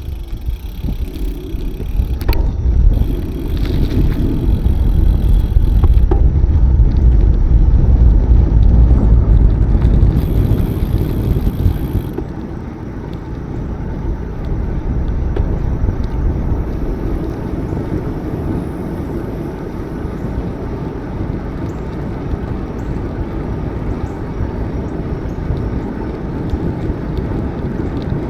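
Riding noise from a bicycle: a steady low rumble of wind buffeting the microphone and tyres rolling on the path, heaviest until about twelve seconds in and then easing to a steadier level.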